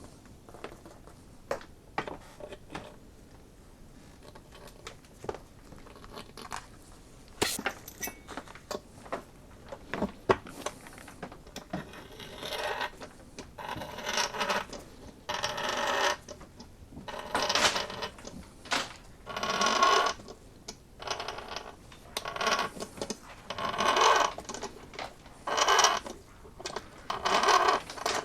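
Hand tap cutting threads in an aluminum valve cover's bolt hole: scattered light clicks, then from about halfway through a series of scraping strokes every second and a half or so.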